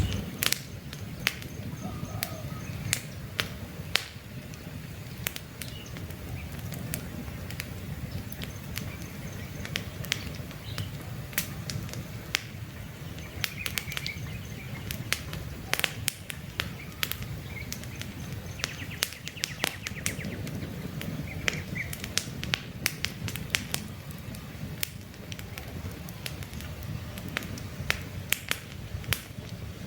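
Wood campfire crackling, with frequent irregular sharp pops and snaps over a low rumble of burning. Occasional faint bird chirps.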